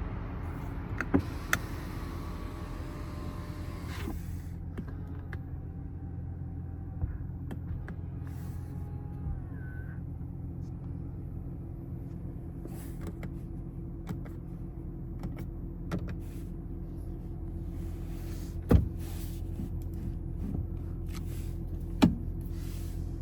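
Small electric motor in the car's cabin whining steadily for about four seconds, then a fainter motor run for a few seconds more, over a steady low hum. A few sharp clicks, two of them near the end.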